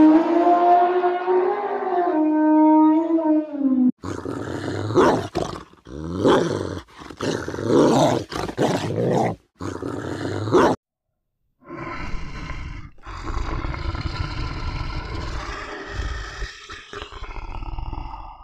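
Animal calls one after another, cut together: a drawn-out pitched call for about four seconds, then a run of short, rough calls broken by abrupt stops, and after a brief gap a longer stretch of rough calls.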